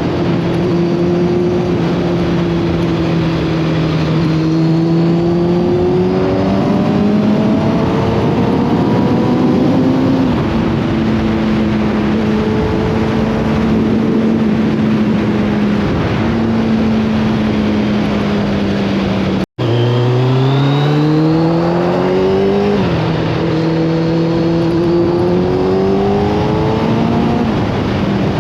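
Motorbike engine under way, its pitch holding and then rising with the revs and dropping in steps at each gear change. It cuts out for an instant about two-thirds through, then climbs hard through a gear.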